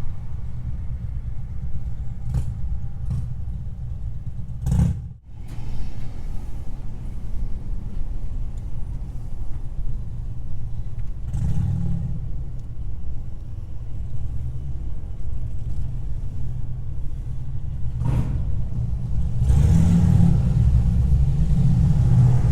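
Pickup truck driving, a steady low engine and road rumble that briefly dips about five seconds in and grows louder near the end.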